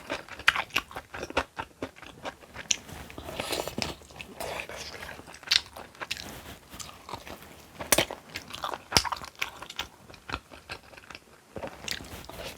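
Close-miked eating sounds: irregular crunchy bites and chewing of crunchy food, with a few louder crunches scattered through.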